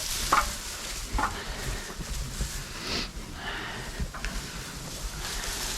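Loose straw bedding rustling and crackling irregularly as goats nose through it, with a few sharper crackles scattered through.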